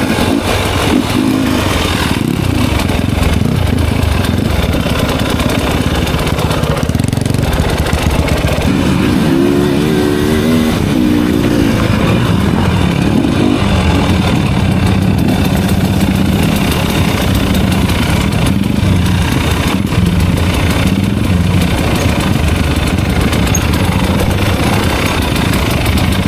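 Enduro dirt bike engine running as it rides an off-road trail, the revs rising and falling.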